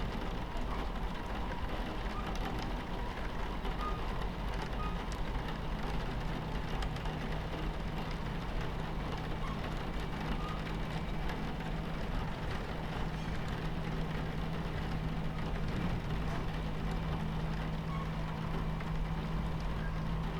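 Steady rumble of a moving train with rain pattering against the window. A low steady hum joins in about five seconds in and holds.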